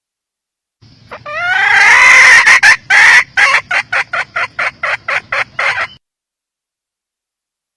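A female red junglefowl hen calling: a loud cackle of rising notes that breaks into a quick run of clucks, about five a second, and stops abruptly.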